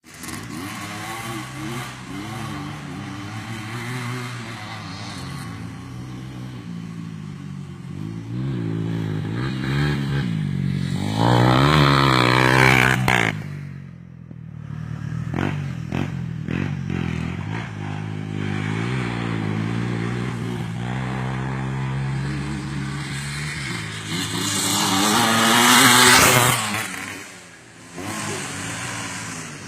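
Motocross dirt bike engines revving up and down. Two louder close pass-bys, one near the middle and one near the end, each cut off sharply as the bike moves away.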